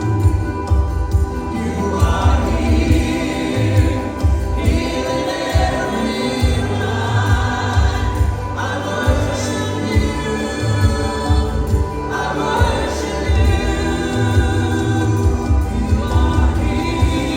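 Congregational worship music: a choir and congregation singing a gospel song over a band with a steady bass beat.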